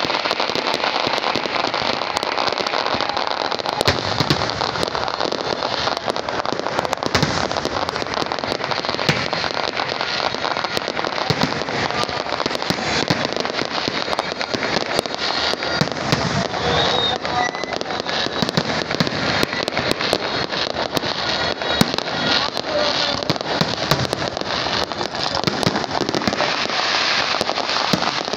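Aerial fireworks display: dense, continuous crackling and popping from many bursting shells, with sharper bangs scattered throughout.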